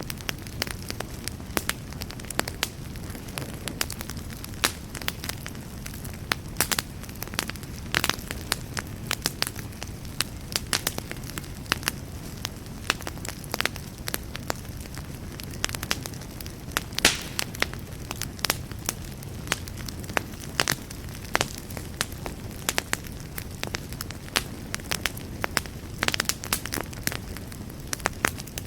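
Wood fire burning in a fireplace, crackling with frequent irregular pops over a steady low rush of flame.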